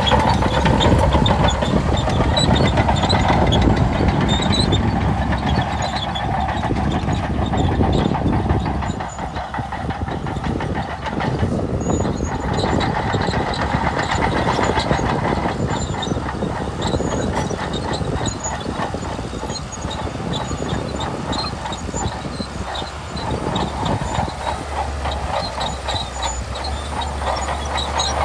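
Shantui DH17C2 crawler bulldozer working: its diesel engine running under load with the steady clatter of the steel tracks, louder for the first third and easing somewhat after.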